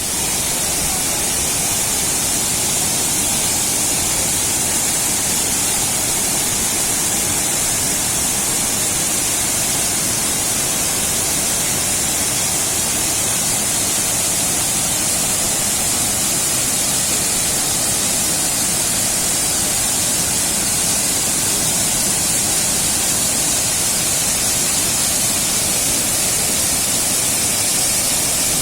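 Steady rushing of a mountain stream's falling water, a loud even roar that starts abruptly and does not change.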